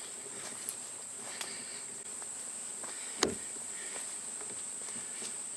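Late-summer insect chorus, a steady high-pitched trill that runs without a break, with faint scattered ticks. A single sharp knock stands out about three seconds in.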